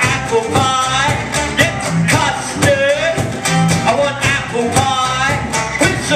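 Live music with a steady beat under a melody line that bends up and down in pitch.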